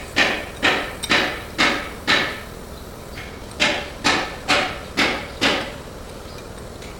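Hammer blows on metal, each with a short ring: a run of about five strikes at roughly two a second, a pause of about a second and a half, then another run of about five.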